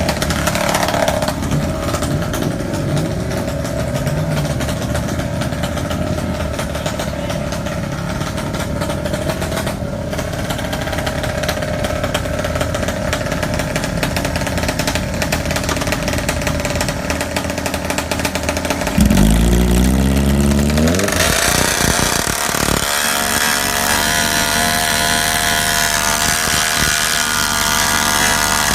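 Motorcycle engines running at a drag strip. About 19 seconds in, one bike revs hard with a quickly rising pitch, then a steady, higher-pitched engine buzz takes over.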